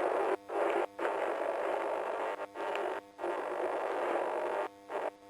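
Police radio static: a rough hiss over a keyed-up channel with no voice, cutting out briefly several times and dropping away near the end.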